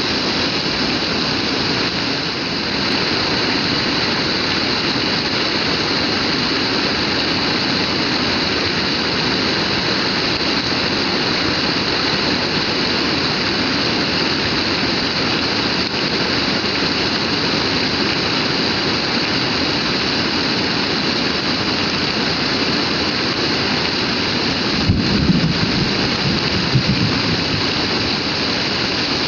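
Heavy rain pouring down steadily. Near the end there is a short low thump or rumble, then a smaller one about two seconds later.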